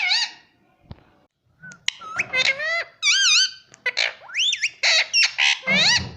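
Indian ringneck parrot calling: a rapid run of high-pitched squawks and chirps that swoop up and down in pitch, after a short pause about a second in.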